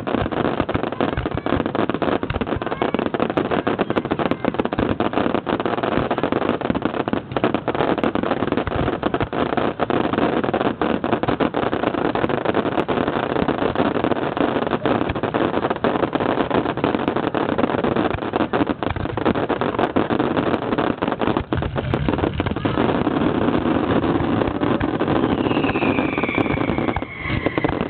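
Strings of firecrackers going off in a dense, unbroken crackle. A whistle falling in pitch cuts through near the end.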